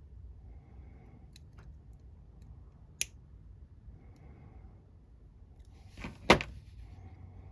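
Small clicks and taps of a paper clip and plastic action-figure parts being handled and bent: a few faint ticks, one sharp click about three seconds in, and a louder knock just after six seconds.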